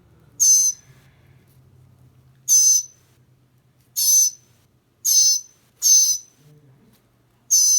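A northern mockingbird gives six short, harsh, raspy calls, spaced irregularly about one to two seconds apart, while it is held and handled with a broken leg.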